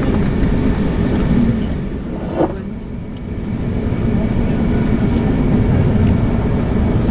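Steady low rumble of engine and airflow noise inside an Airbus A380's cabin. The noise eases a little about two seconds in, with a brief sharp sound, then builds back up.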